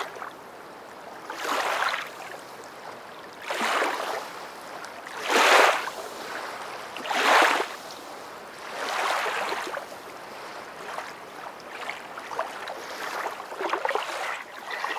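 Water rushing and sloshing in repeated swells that rise and fade about every two seconds.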